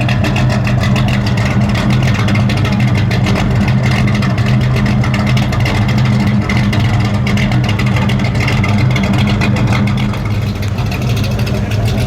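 Car engine running steadily at low revs, with an even low note and no revving.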